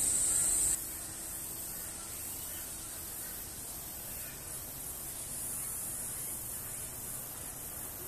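A steady high-pitched insect buzz cuts off abruptly under a second in, leaving a faint, steady hiss of outdoor ambience.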